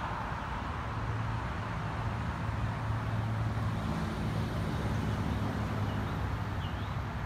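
A vehicle engine running steadily, a low hum that swells slightly through the middle and eases off near the end, over outdoor background noise.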